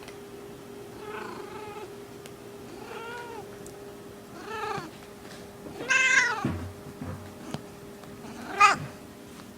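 Small female cat in heat calling: five separate meows, each rising and then falling in pitch, the loudest about six seconds in and the last short and sharp. A faint steady hum runs underneath.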